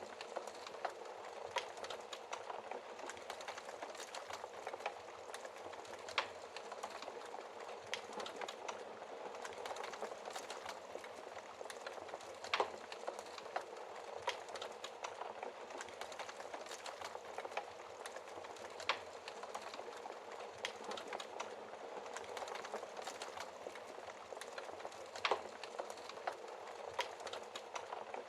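Wood fire burning in a fireplace, crackling steadily with a dense patter of small clicks and a sharper, louder pop every several seconds.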